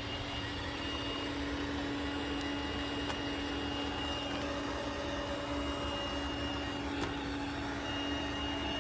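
Roomba Combo 10 Max robot vacuum running on carpet at high suction: a steady motor hum with a thin high whine over the suction noise.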